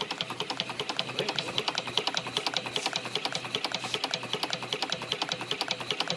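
Stirling engine running steadily with a fast, even mechanical clatter of about six beats a second over a low hum. The engine is not perfectly balanced.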